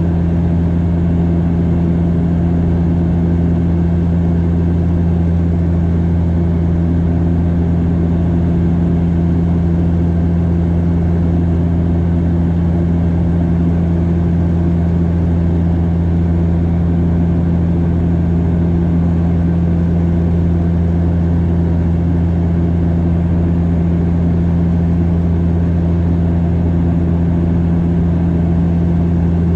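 Bombardier Dash 8 Q400's turboprop engines and six-bladed propellers heard from inside the cabin in flight: a steady, loud low drone with a deep hum and an overtone, unchanging throughout.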